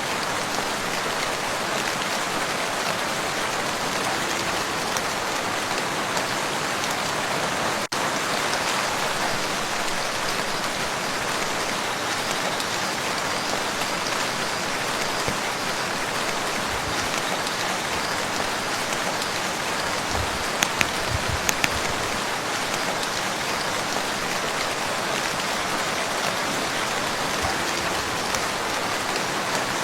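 Steady rain falling on a lake and its shore: an even, dense hiss of drops, with a few louder drips landing close by a little past two-thirds of the way through.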